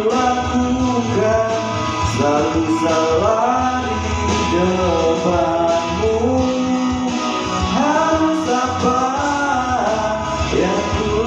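A male vocalist singing a slow, melodic pop-rock song with guitar accompaniment, holding long notes that glide between pitches.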